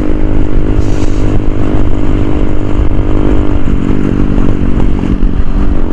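A 100 cc motorcycle engine running steadily at cruising speed, with heavy wind rumble on the microphone. The engine note changes a little over halfway through.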